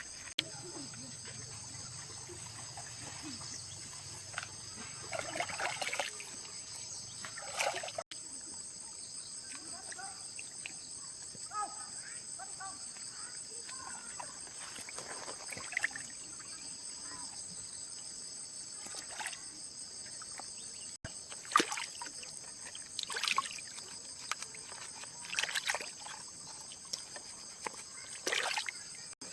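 Liquid sloshing and splashing in short, irregular bursts, as when parts or a tank are being washed out, over a steady high-pitched insect drone.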